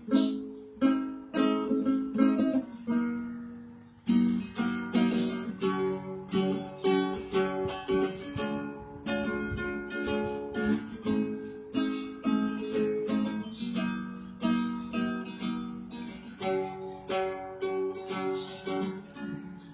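Acoustic plucked string instrument strumming chords in a steady rhythm with no singing: the instrumental ending of an acoustic song. The playing dies away about three seconds in, then starts again and carries on.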